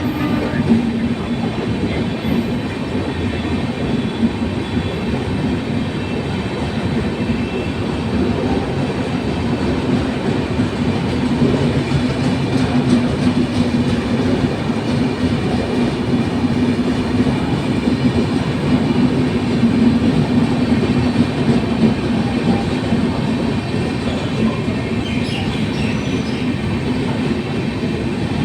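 Mail express train running steadily on the rails: a continuous rumble of wheels on track, with a few faint high squeals near the end.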